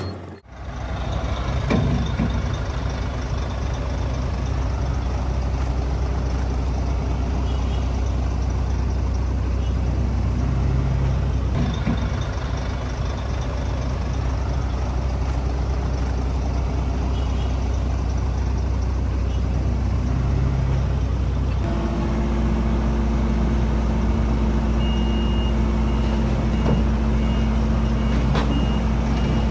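Heavy diesel earthmoving machinery running steadily, its engine note changing about two-thirds of the way through. Near the end a reversing alarm starts beeping.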